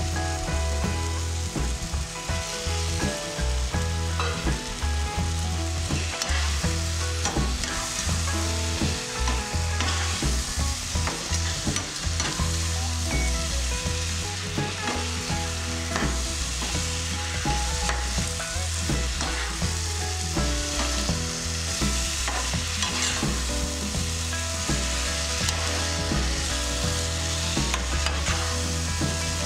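Pointed gourd and potato strips in onion-tomato masala sizzling as they fry in a non-stick wok, with a spatula stirring and scraping through them in frequent small taps.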